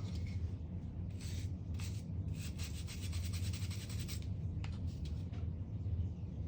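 Small brass wire brush scrubbing the back of a plastic wiring-harness connector in short strokes, with a quick run of strokes in the middle, to clean corrosion off the moulded pin numbers. A steady low hum runs underneath.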